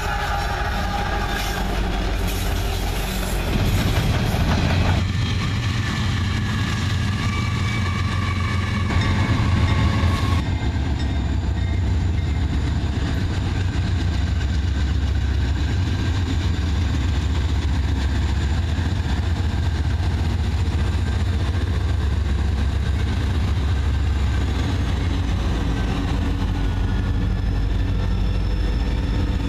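Diesel freight locomotives passing close by: a steady low engine rumble with the rolling noise of wheels on rail. The sound changes abruptly about ten seconds in, and a second passing train carries on the same steady rumble.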